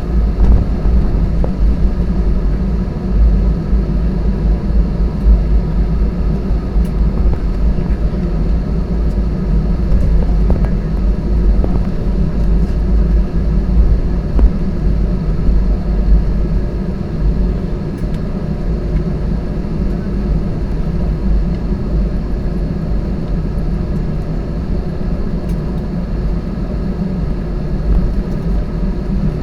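Airbus A320 heard from inside the cabin while taxiing: a steady low rumble of the engines at low power and the wheels rolling, with a few faint light knocks.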